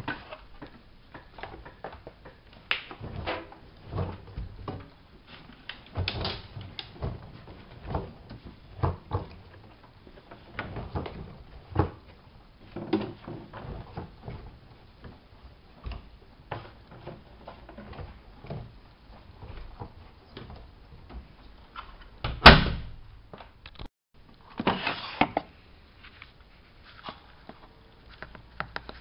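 Bauknecht WAP 6460 washing machine being handled: irregular knocks and clunks about once a second, with one sharp, loud bang about twenty-two seconds in.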